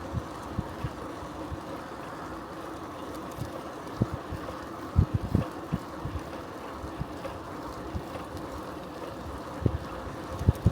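Bicycle riding along a road: a steady rolling hum from the tyres, with wind buffeting the microphone in irregular low thumps, strongest about five seconds in and near the end.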